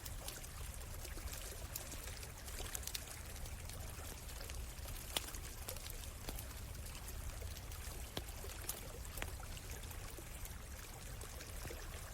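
Stream water running steadily, with a campfire crackling over it in scattered sharp pops, the loudest about five seconds in.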